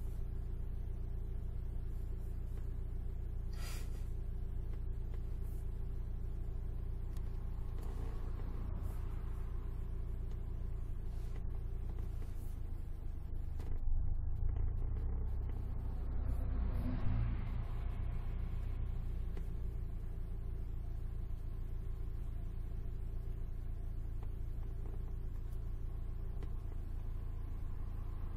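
Alfa Romeo 156 on the move: a steady low engine and road hum, swelling louder for a few seconds around the middle before settling back.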